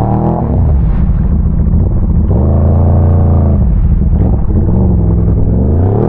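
ATV engine running loud under throttle, its pitch dropping early, held high for about a second in the middle, then falling and rising again near the end.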